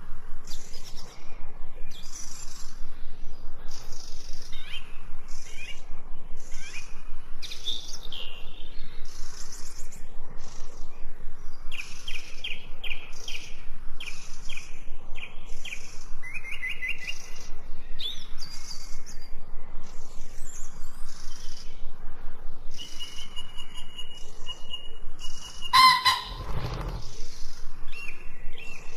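Several songbirds chirping and singing, with rapid repeated chirps, short trills and whistled notes overlapping throughout. About three quarters of the way through, one sudden louder sound with a harsher, lower pitch cuts across the songs.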